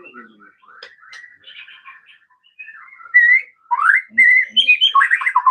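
White-rumped shama (murai batu Medan) singing: a soft twittering warble at first, then loud, clear whistled phrases from about three seconds in, one of them a quick rising slide.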